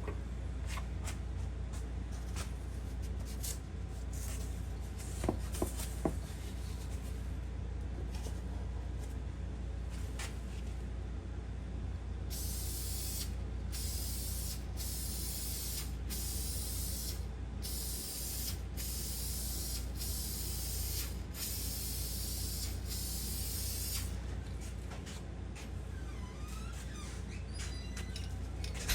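Hissing spray in a run of bursts, each one to three seconds long with short breaks, starting about twelve seconds in and stopping about twenty-four seconds in, while a steady low hum runs underneath. Scattered light clicks and knocks come before the spraying.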